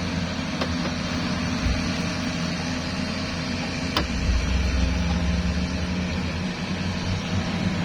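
An engine idling steadily, with one sharp click about four seconds in.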